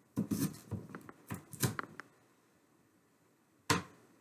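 Sharp knife cutting through a raw potato onto a cutting board: a quick series of knocks and scrapes over the first two seconds, then a single sharp knock of the blade on the board near the end.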